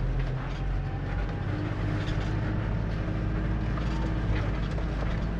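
Steady low drone of a Fuso truck camper driving on the highway: engine and road noise at an even pace.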